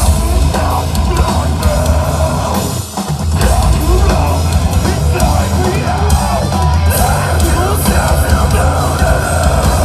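A rock band playing loud live music, with a drum kit and guitars. The band briefly drops out for an instant about three seconds in.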